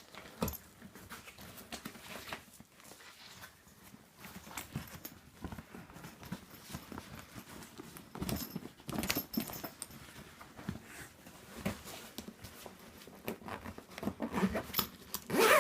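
Intermittent rustling with scattered soft knocks and clicks from a drone carry-case rucksack being handled.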